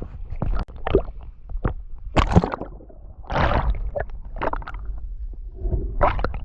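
Seawater sloshing and splashing in irregular bursts over a low rumble, as of someone moving through shallow surf.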